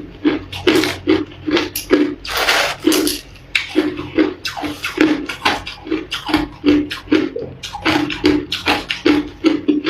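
Ice being chewed close to the microphone: a steady run of crunches, about two to three a second, with a longer grinding crunch about two and a half seconds in.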